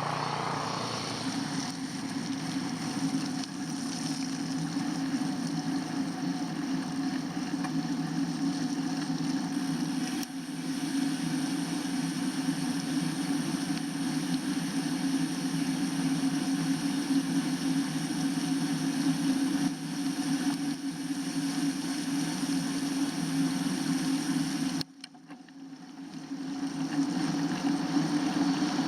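Steady wind and rolling noise from riding a bike. It drops off suddenly near the end, then builds back up over a few seconds as the bike gathers speed.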